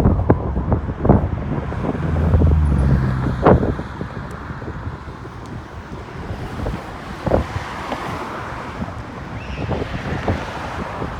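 Wind buffeting the microphone during a bike ride, a steady rushing noise with scattered knocks and bumps, and a low hum for about a second and a half near the start.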